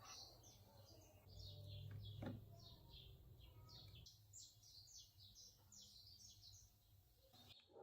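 Faint bird song: a quick run of short, high chirps, each sliding downward, about three a second. A low hum and a soft knock come in around two seconds in.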